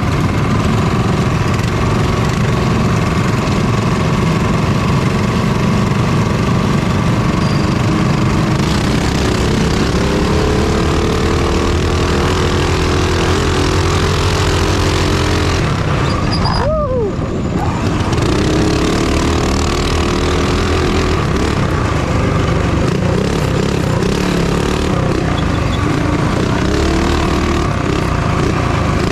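Minibike engine running at high revs under race throttle, its pitch rising and falling. About two-thirds of the way through, the throttle is briefly closed: the revs fall away, then pick up again.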